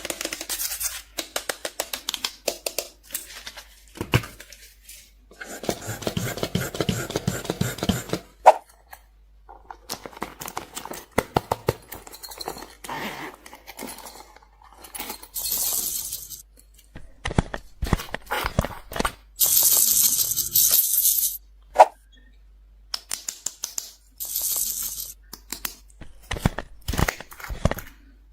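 Close-up ASMR handling sounds of small toys and craft materials: irregular sharp clicks and crackles, broken by several longer bursts of crinkling and rustling lasting one to two seconds each.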